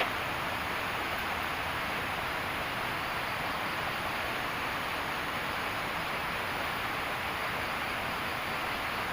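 Steady rushing of a river running close by, an even hiss of flowing water with no change in level.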